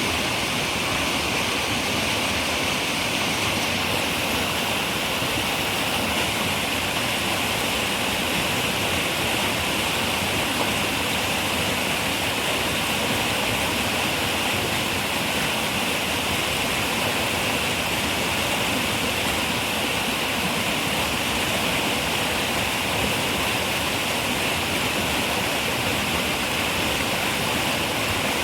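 River water running and rushing, a steady, unchanging noise.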